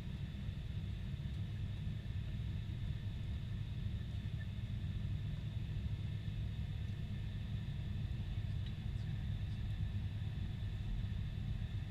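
Steady cabin noise of a Boeing 747-400: an even, low rumble with a faint, higher steady hum above it, unchanging throughout.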